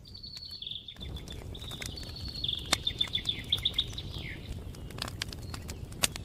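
A songbird singing a high, rapid trill of repeated notes that quickens, then ends in a falling slur about four seconds in. Over it, a campfire crackles with scattered sharp pops, one louder pop near the end.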